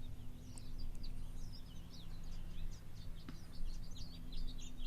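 Small birds chirping, many short quick calls overlapping throughout, over a steady low hum.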